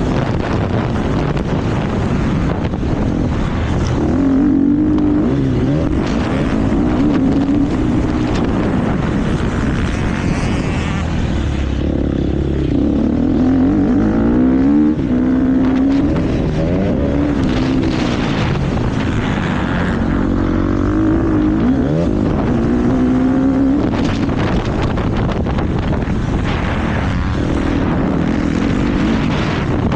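KTM motocross bike engine revving hard and easing off again and again as it is ridden round a race track, its note repeatedly climbing and dropping with the gear changes, over heavy wind and track noise.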